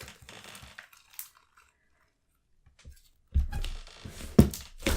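Stiff, thickened slime being worked by hand: faint crackling and tearing as it is pulled, a pause, then louder handling with a low rumble and a few sharp clicks near the end. The slime has set hard after sitting out, so it cracks and rips instead of stretching.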